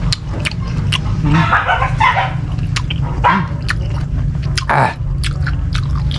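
A person chewing green mango with shrimp paste close to the microphone: a quick run of sharp wet mouth clicks and smacks, with a couple of short breathy sounds, over a steady low hum.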